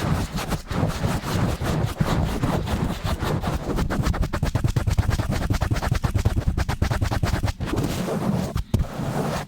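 Fast, rough scratching and rubbing directly on a microphone: many rapid strokes with a heavy low rumble, broken by a brief pause near the end.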